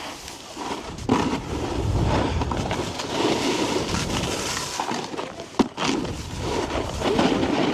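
Snowboard scraping and carving across hard-packed snow, the sliding noise swelling and easing with each turn, with one sharp knock about five and a half seconds in.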